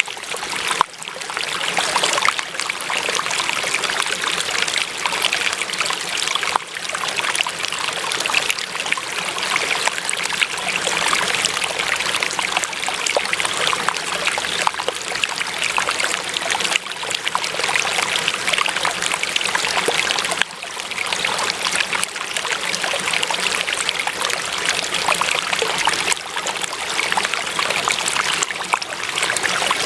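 Water flowing and trickling steadily in a stream, with a few brief dips in loudness.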